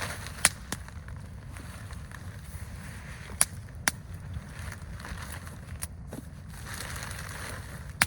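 Campfire burning, with a few sharp, irregular pops and cracks from the burning wood over a steady low background rumble.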